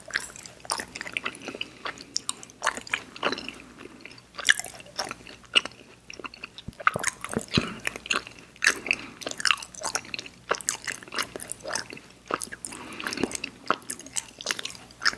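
Close-miked mouth sounds of someone chewing Airheads Xtremes sour chewy candy: irregular wet smacks and sharp clicks of the mouth working the sticky candy.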